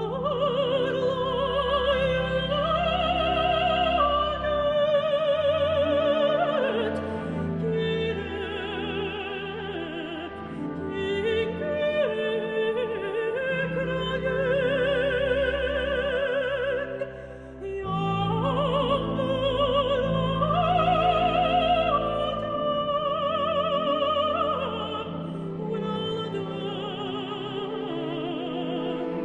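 Mezzo-soprano singing in operatic style with a wide vibrato over orchestral accompaniment, in long held phrases with a short break a little past halfway.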